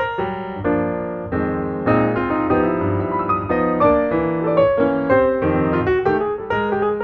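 Piano music: a quick run of struck notes with some held chords.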